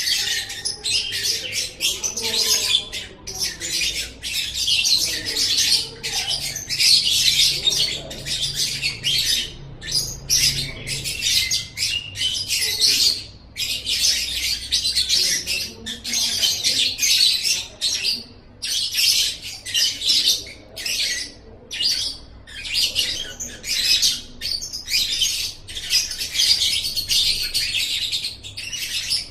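Lovebird singing: a long, fast, unbroken run of high, squeaky chirps and twitters with only brief pauses.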